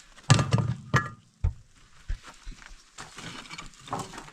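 Crashes and thuds of building material breaking and falling during house demolition: two loud crashes in the first second, a deep thud just after, then lighter knocks.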